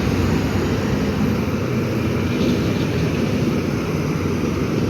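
Heavy lorry's diesel engine labouring steadily as the lorry crawls up a steep grade in its lowest 'extra' gear.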